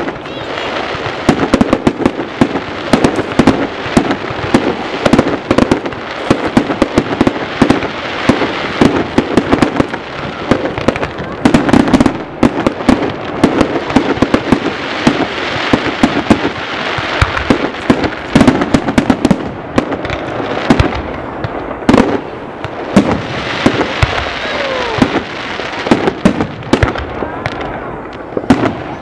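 Fireworks display: a dense, continuous run of bangs and crackles from aerial shells bursting, many a second, with a few whistling glides in the second half.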